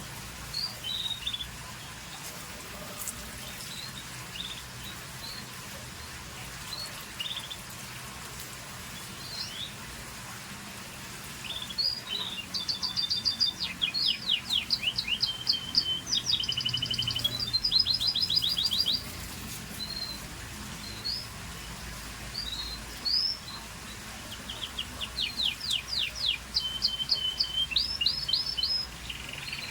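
Scotch Fancy canary singing: scattered short chirps, then two phrases of fast trills, a long one about halfway through and a shorter one near the end.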